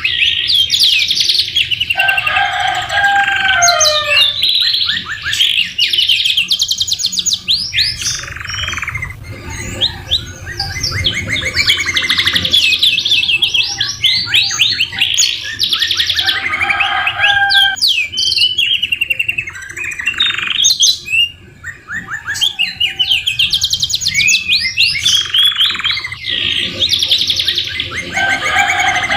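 Domestic canary singing a continuous song of rapid trills and warbling phrases, a 'masteran' training song with white-rumped shama phrases worked in. A few lower, sliding notes break into the high trills now and then.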